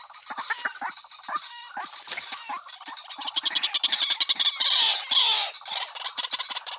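White-breasted waterhen calling: a string of short falling notes, then a fast, loud run of harsh repeated calls in the middle that ease off toward the end.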